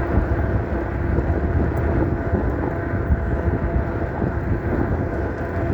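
Wind buffeting the microphone as an electric bike cruises along a road, with the steady whine of its electric motor underneath.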